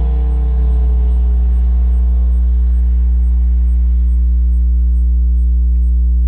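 A 2013 Scion FR-S's flat-four engine running through a Corsa performance exhaust with a steady low drone. Its pitch eases down over the first few seconds, then holds steady.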